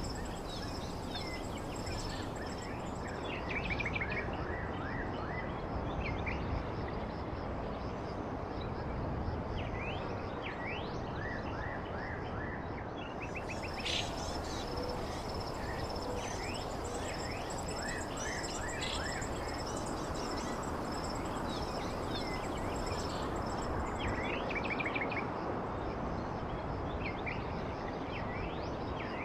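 Birds chirping in short clusters of quick notes, again and again, over a steady hiss of background noise, with a high, fast-pulsing trill running underneath.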